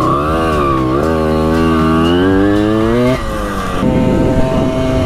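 Simson moped's two-stroke single-cylinder engine under way: its pitch dips, then climbs steadily for about three seconds and drops suddenly, then runs steadier at lower revs.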